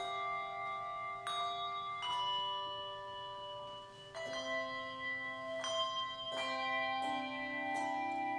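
A handbell choir playing a slow tune. Each struck chord rings on for several seconds, overlapping the next.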